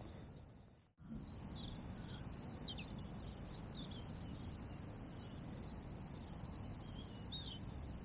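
Faint steady low background noise with a scatter of short, high songbird chirps. The sound drops out completely for a moment about a second in.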